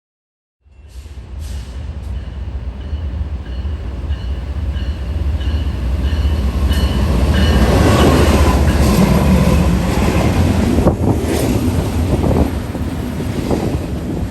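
A train rolling past on the rails. It begins suddenly after a moment of silence, as a steady low rumble that builds to its loudest about eight seconds in, with scattered wheel clicks and a faint high wheel squeal in the first half.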